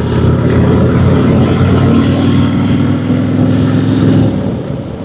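Motorcycle engine running steadily under way, with road and wind noise. The engine note eases off a little after four seconds in.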